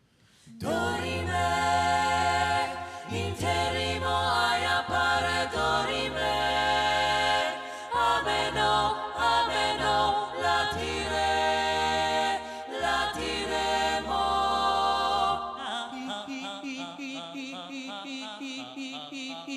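A cappella vocal group singing held chords in harmony over a deep sung bass line. About three quarters of the way through it changes to a quicker pulsing vocal rhythm of about three to four beats a second.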